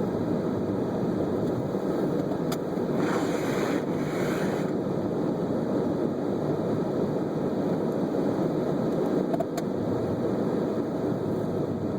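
Steady rumble of a Volvo V70 wagon driving through fresh snow, heard from inside the cabin: tyre and engine noise with no distinct engine note. A brief hiss swells and fades about three seconds in, and there are a couple of faint clicks.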